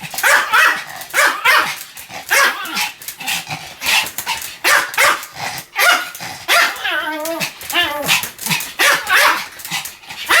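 Pomeranian barking over and over in a steady string, about one and a half barks a second.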